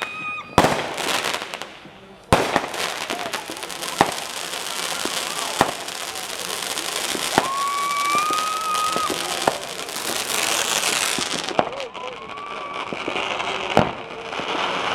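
Consumer fireworks going off: about seven sharp bangs over a continuous crackling fizz that swells loudest about two-thirds of the way through, with a sustained whistling tone about halfway through.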